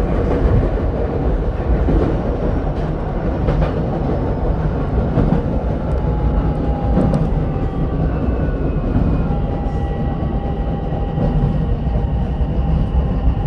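Ichibata Electric Railway 7000 series electric railcar running, heard from inside the car: a steady rumble of wheels on rail with a couple of clicks at rail joints. A thin motor whine comes in about halfway through.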